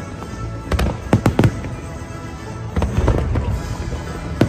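Aerial fireworks shells bursting in quick clusters of bangs and crackles, about a second in, around three seconds in and again near the end, over music with a steady bass line.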